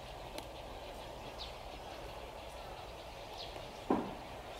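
Outdoor ambience: a steady faint background noise with a bird's short, high, falling chirps repeating every couple of seconds, and a brief dull thud about four seconds in that is the loudest sound.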